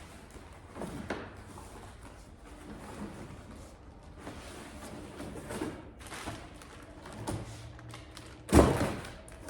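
Packing material being handled and rustled as a package is unpacked, with scattered small knocks and one loud thud near the end.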